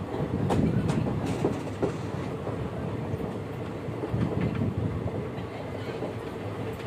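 Passenger train coaches running slowly around a curve: a steady rumble of wheels on the rails with occasional sharp clicks, heard from a coach window.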